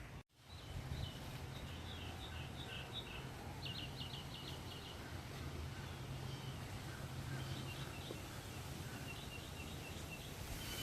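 Small birds chirping in short high calls, in several bursts, including a quick run of about six notes around four seconds in and more near the end, over a steady low background hum.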